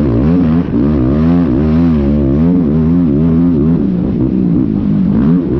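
Yamaha YFZ450R single-cylinder four-stroke quad engine ridden hard, its pitch swinging up and down over and over as the throttle is worked through rough, whooped-out ground.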